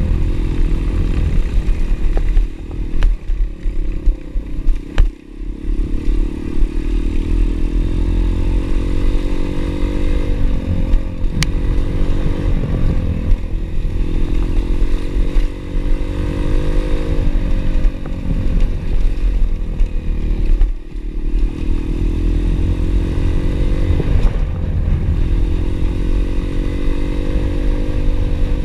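Pit bike's small single-cylinder engine running under way, revs repeatedly climbing and dropping back with throttle and gear changes, with brief throttle-offs. A few sharp clicks over strong low rumble.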